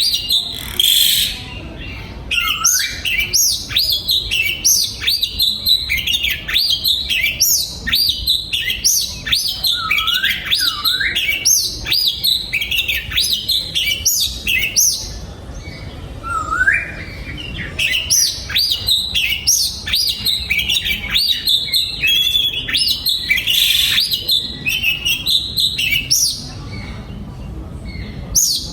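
Oriental magpie-robin singing: a long, fast run of varied whistled notes and pitch sweeps, with brief pauses about halfway through and again near the end.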